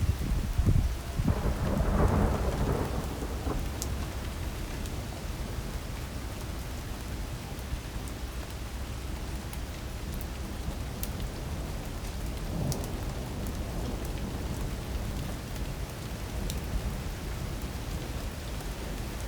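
Heavy rain pouring steadily in a thunderstorm, with a loud low rumble of thunder in the first few seconds and a fainter rumble about twelve seconds in.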